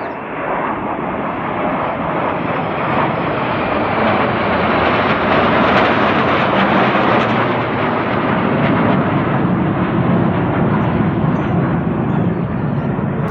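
Jet noise of a five-aircraft formation, a Netra AEW&C and four Rafale fighters, flying past overhead. It is a loud, steady rush that builds to a peak about halfway through and then eases off a little.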